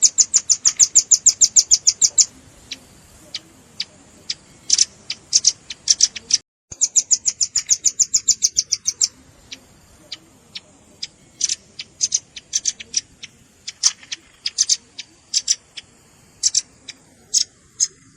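Velvet-fronted nuthatch calls: a fast trill of sharp, high chips, about ten a second for two seconds, then scattered single chips, a second trill near the middle, and more scattered chips.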